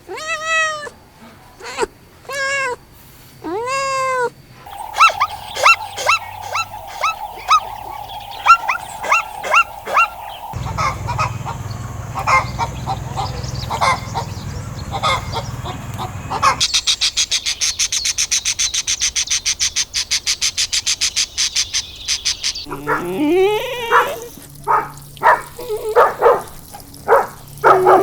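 A run of different animal calls, one clip after another: pitched rising-and-falling cries at first, then repeated short calls over a steady hum, and in the middle a rapid, even pulsing call lasting about six seconds.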